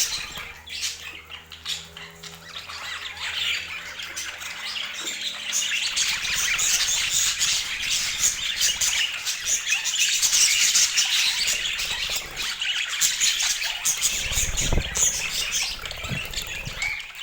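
Budgerigars chattering, with a steady stream of chirps and squawks. There is a low thud about fifteen seconds in.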